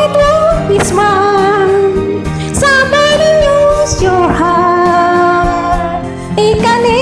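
A woman singing a slow love ballad over a karaoke backing track, holding long notes that waver in pitch.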